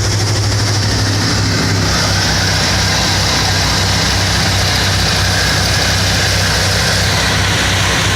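Pickup truck engine idling steadily and loudly.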